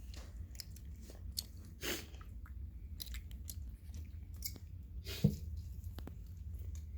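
Gila monster chewing a dead mouse: irregular small wet clicks and crunches, with one louder crunch about five seconds in, over a low steady hum.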